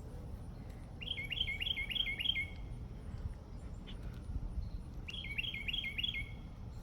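A songbird singing two short phrases, each a quick run of about five falling notes, one about a second in and another about five seconds in.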